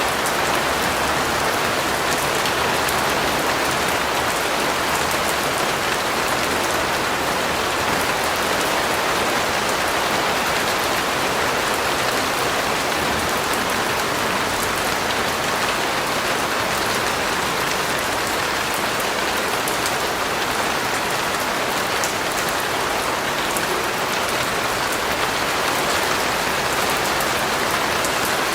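Steady rain falling on a surface, with fine scattered drop ticks in an even hiss.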